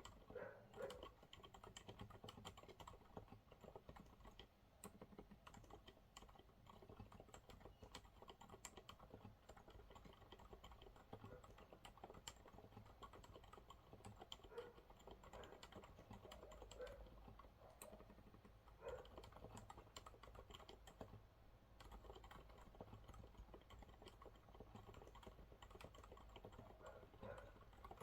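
Monsgeek MG108W mechanical keyboard with TTC silent brown switches being typed on continuously: a faint, steady stream of muted key presses, with a few slightly louder strokes now and then.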